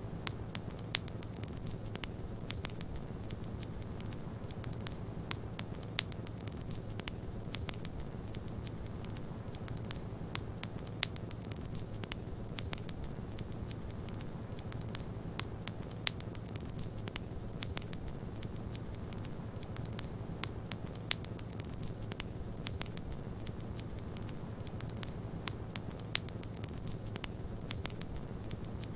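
Fireplace wood fire crackling, with frequent sharp, irregular pops and snaps over a steady low rumble.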